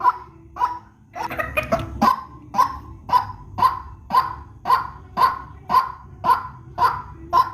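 White-breasted waterhen calling: a harsh, repeated call about twice a second, with a brief burst of overlapping calls between one and two seconds in.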